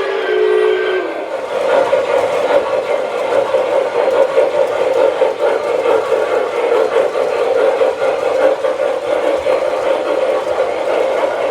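Sound system of an O scale MTH Proto-2 model steam locomotive blowing its steam whistle, which cuts off about a second in. Steady running noise of the model train on the track follows.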